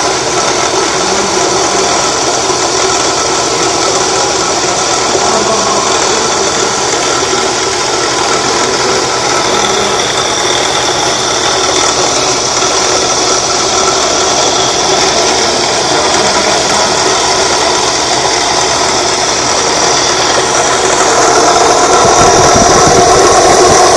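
Homemade battery charger built around a washing-machine motor, running steadily just after being switched on. Its steady mechanical running noise grows louder and deeper about two seconds before the end.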